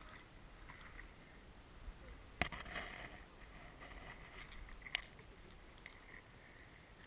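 Two short, sharp clicks or knocks about two and a half seconds apart, over a faint steady outdoor rumble.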